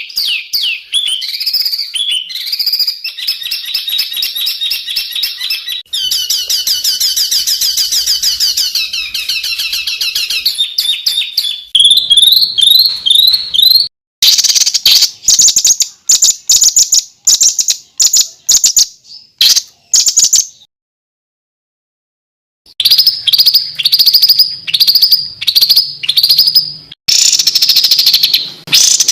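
Recorded songbird song of the masteran kind, used to train captive songbirds: dense, rapid, harsh trills and chattering phrases, the 'tembakan rapat dan kasar' (tight and rough bursts). It comes in clips with abrupt cuts and a silent gap of about two seconds past the middle.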